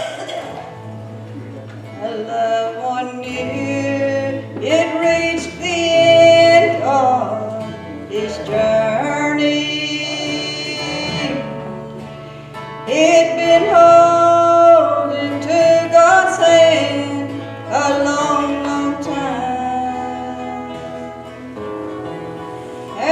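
Country-style gospel song with guitar accompaniment and a sung melody of held, gliding notes over a steady bass line.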